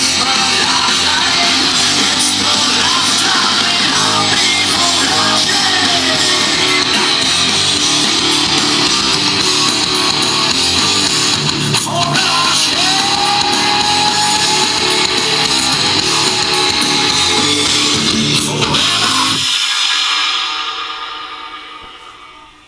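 Rock song with electric guitar and singing, played loud through a custom motorcycle stereo: Polk Audio DB651 6.5-inch and DB401 4-inch speakers with a Hogtunes tweeter bar, driven by a Rockford Fosgate PBR300X4 amplifier, picked up by a GoPro Hero3's microphone. About 19 seconds in the bass drops out and the music fades away.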